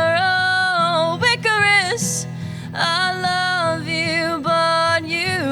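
Woman singing long held notes with vibrato over a steady low instrumental accompaniment, with a quick breath about two seconds in.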